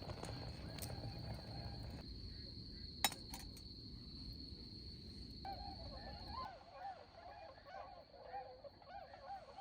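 Swans on a lake calling: a chorus of short, repeated honking calls from a little past halfway through. Earlier there is a low rushing noise and a single sharp click about three seconds in.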